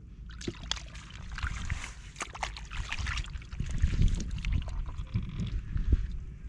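Water splashing and sloshing, with many irregular clicks and knocks over a low rumble; it starts about half a second in and thins out after about three seconds.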